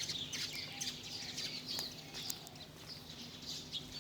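A flock of small birds chirping, with many rapid, overlapping chirps, over a faint steady low hum.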